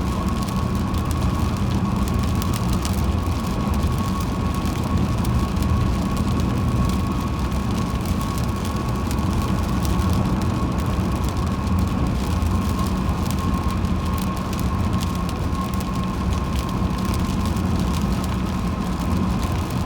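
Steady tyre and engine rumble of a car driving on a rain-wet highway, with a steady mid-pitched whine and a fine crackle of spray or raindrops.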